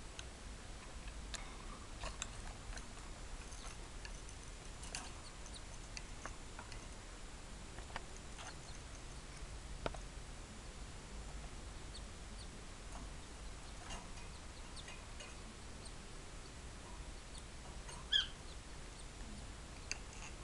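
Faint, scattered cheeps and clicks from five-day-old canary nestlings, with one louder short chirp near the end, over a low steady hum.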